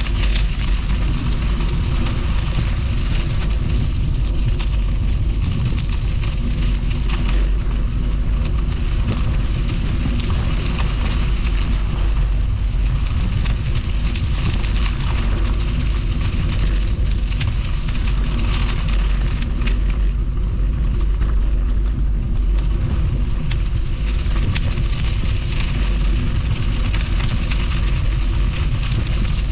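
Bicycle ride sound from a bike-mounted camera: steady wind rumble on the microphone, with a fine, constant crackle of tyres rolling over the path.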